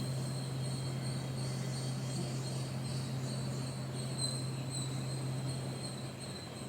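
Crickets trilling continuously in one high, steady note over a steady low hum.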